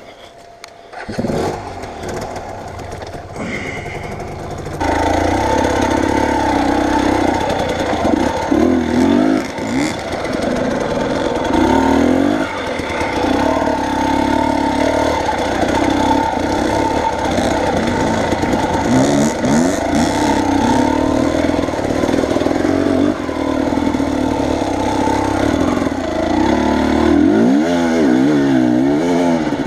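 Vehicle engine working hard under load, much louder from about five seconds in, revving up and down again and again as it is driven through rough ground along a bank.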